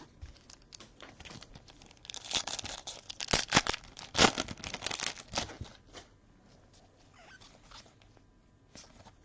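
Trading cards and a foil pack wrapper being handled: a flurry of crinkling, crackling clicks for about three seconds, loudest around the middle, then a few faint scattered ticks.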